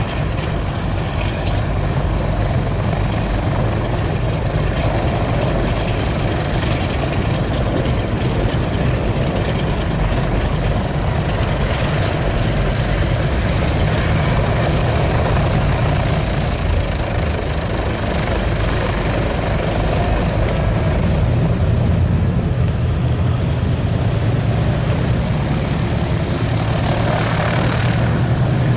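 Pratt & Whitney R-2800 eighteen-cylinder radial engine of a Republic P-47D Thunderbolt running steadily with its propeller turning, a loud, even, low engine sound.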